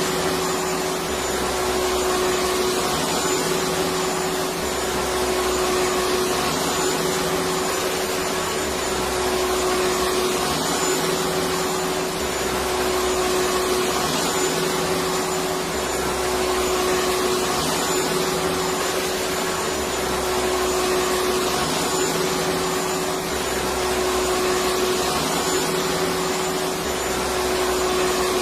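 Electric vacuum cleaner running steadily: an even rushing air noise over a constant motor whine, with a faint low pulse repeating about every two and a half seconds.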